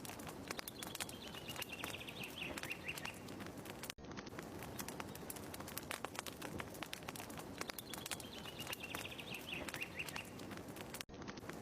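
Fireplace crackling, with many small irregular pops over a soft hiss, and a short bird trill about two seconds in that comes back near the end. The ambience is a loop, cutting out for an instant twice where it repeats.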